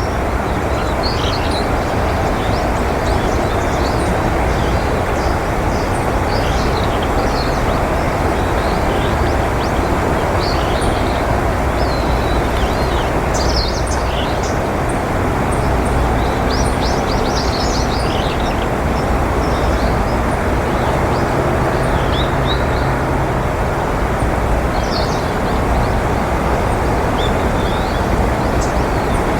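Small birds chirping and twittering in short, scattered calls over a loud, steady background rumble, with a low hum joining about halfway through.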